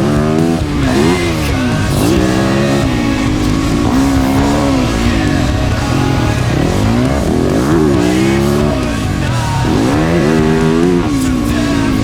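Dirt bike engine revving hard and backing off over and over as it is ridden around a motocross track, the pitch climbing and dropping every second or two. Background music plays underneath.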